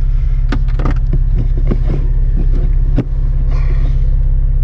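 A 4x4 vehicle's engine running at a steady idle, a low, even throb. A few light clicks are scattered over it, with one sharp click about three seconds in.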